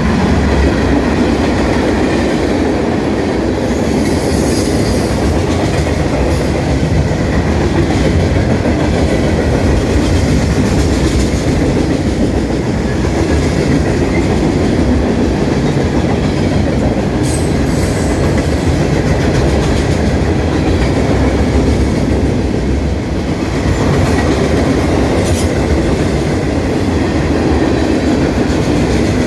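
Norfolk Southern freight train rolling past with a steady, loud rumble of steel wheels on rail. A few faint high-pitched wheel squeals come through at moments.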